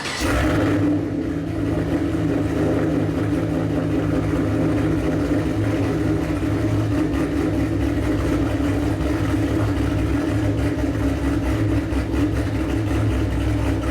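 Car engine running steadily at an even, low hum, after a short burst of noise at the very start.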